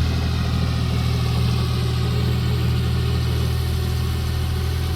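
Swaraj 744 tractor's diesel engine running at a steady, unchanging speed.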